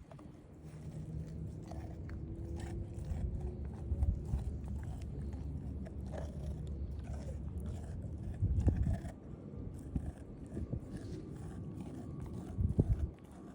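A puppy chewing and biting on a raw meat patty, with irregular wet chewing and small crunches, and louder bites about two-thirds of the way through and near the end.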